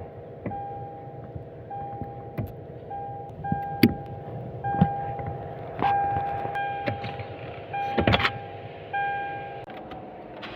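A car's electronic warning chime beeping over and over, about once a second, and stopping near the end. Several sharp clicks and knocks sound in between, as of switches or controls inside the car being worked.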